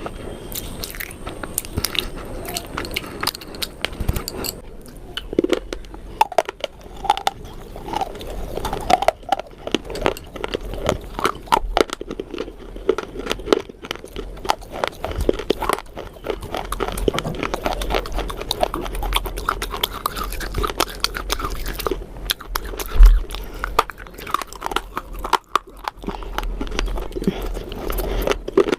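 Close-up biting and chewing of pieces of baked clay pot: dense, irregular sharp crunches and crackles, with one louder thump about 23 seconds in.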